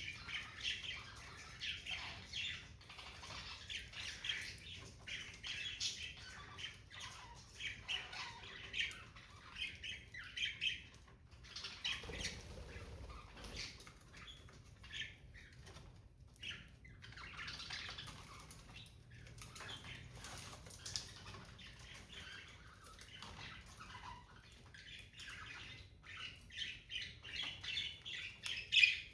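Pet budgerigars chirping and chattering in many short calls, with wing flaps as they fly about.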